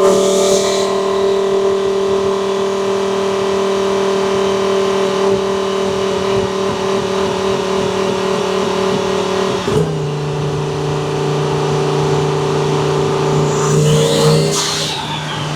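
Twin-turbo Lamborghini Huracán V10 engine running at a steady speed, its note holding one pitch. About ten seconds in the note drops to a lower steady pitch and holds there.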